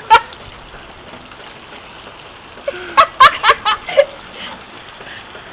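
Steady hiss of a heavy downpour of rain and hail. A short burst of laughter comes about three seconds in.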